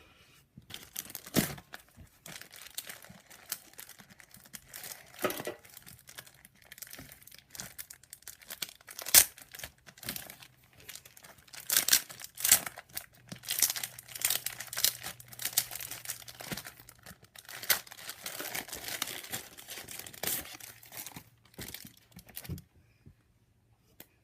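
Plastic and foil wrapping of a Match Attax trading-card multipack being torn open and crinkled by hand, a busy run of crackles and sharp rips that stops about two seconds before the end.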